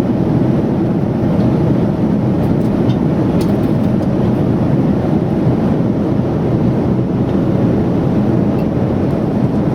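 Airliner cabin noise: a loud, steady rush of engine and airflow noise, with no change in pitch.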